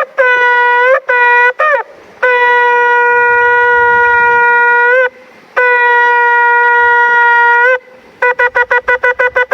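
Shofar (ram's horn) blown in a series of blasts: three short notes, then two long held blasts that each crack upward at the end, then a rapid run of short staccato notes starting about eight seconds in.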